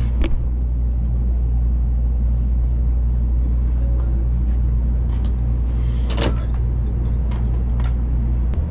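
Steady low rumble inside a Shinkansen bullet-train passenger car, with a few light clicks and knocks over it. The rumble cuts off just before the end.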